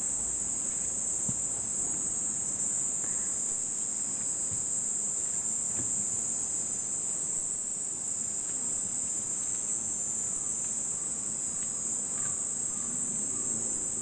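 A cicada singing one steady, high, shrill buzz that cuts off suddenly near the end as the insect flies away.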